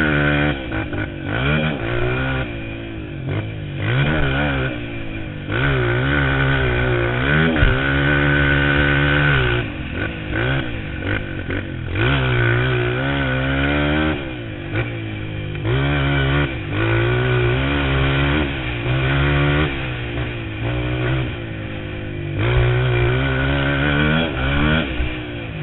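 Motocross bike engine revving hard, its pitch climbing and dropping back again and again as it accelerates, shifts and backs off.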